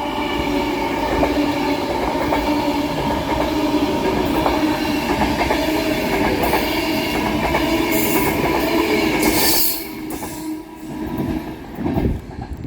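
A train running past the platform, with a steady multi-tone whine and wheel noise and high squeals about eight and nine and a half seconds in. The sound drops away sharply about ten seconds in.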